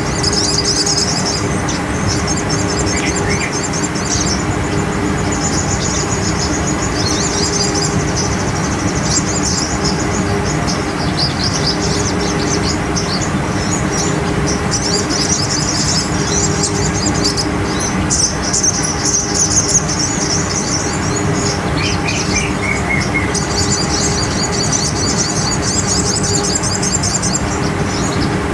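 Crimson sunbird (sogon) song: rapid, high trilled phrases repeated again and again with short gaps, over a steady low hum.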